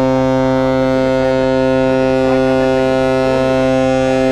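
Ferry's ship horn sounding one long, steady blast at a single low pitch, with no break.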